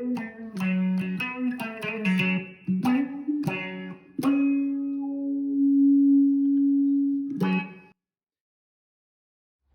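Background music on guitar: a run of plucked notes, then one long held note about four seconds in, and a last struck chord that cuts off suddenly, leaving silence for the last two seconds.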